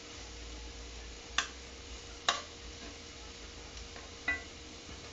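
A cooking utensil clacking against a pan three times while the vegetables and chicken are stirred, over a faint steady hiss.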